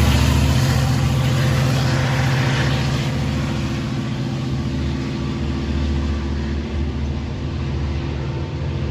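Diesel locomotive engine of a Long Island Rail Road train running with a steady low hum, slowly growing quieter.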